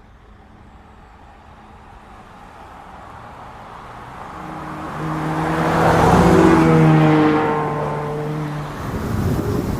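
Supercar engines, an Audi R8 and a Ferrari spider, at full acceleration in a drag race. The sound grows from faint to loud as the cars approach, peaks about six to seven seconds in as they pass, dips, then rises again near the end.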